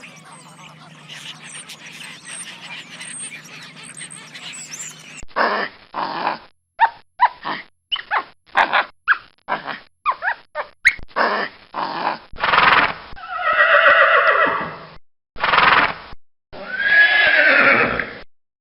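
Horse neighing: first a run of short calls, then three longer whinnies, the last one falling in pitch.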